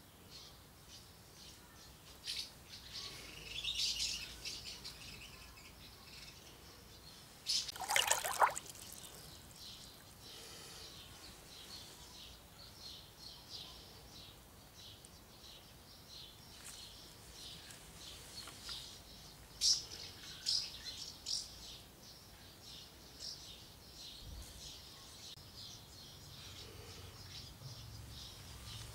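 Birds chirping and singing, many short high chirps scattered throughout, with one louder, brief noise about eight seconds in.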